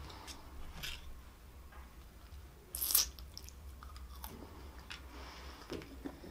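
Close-miked chewing and biting of McDonald's French fries, with one loud crunchy bite about three seconds in.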